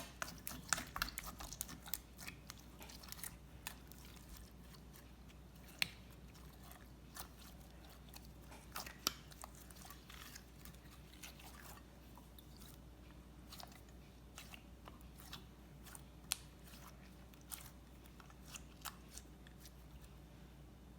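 Slime being squeezed and poked by hand, giving faint irregular clicks and pops, thick for the first few seconds and then scattered.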